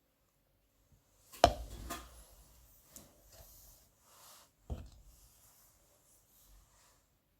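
A kitchen knife knocking and scraping on a cutting board over minced garlic: a few scattered knocks rather than a chopping rhythm, the sharpest about a second and a half in and another near the end, with soft scraping between.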